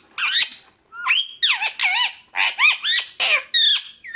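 Pet parrot squawking: a quick run of about eight or nine loud, shrill calls, each sweeping in pitch.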